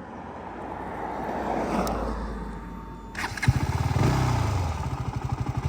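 KTM Duke 200 single-cylinder engine pulling away in first gear: a soft rushing noise swells and fades, then about three and a half seconds in the engine's rapid pulsing beat comes in and briefly rises in pitch. The bike is being ridden to show a knocking 'tak tak' noise, which the rider puts down to a worn chain and sprocket.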